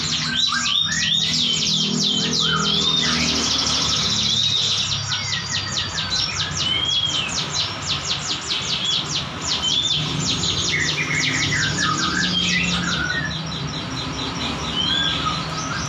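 Ciblek gunung (a prinia, a small Indonesian songbird) singing a dense, fast 'ngebren' song: long rattling runs of quick high notes mixed with short arching whistles. A steady low hum runs underneath.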